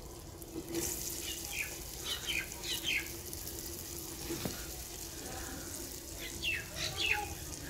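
Masala sizzling faintly in a clay pot as cauliflower florets are broken in by hand. Birds call in short, falling notes, a few times about two seconds in and again near the end.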